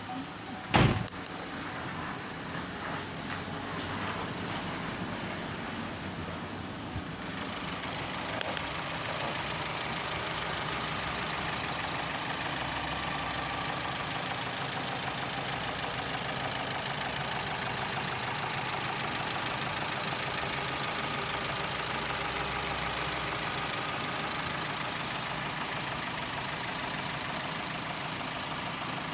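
Holden Cruze engine idling steadily. A single sharp knock comes about a second in.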